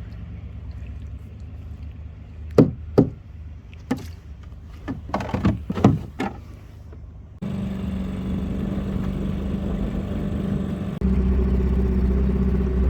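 A few knocks and clatters over a low hum, then a small boat motor running steadily. It comes in suddenly about halfway through and gets louder again near the end.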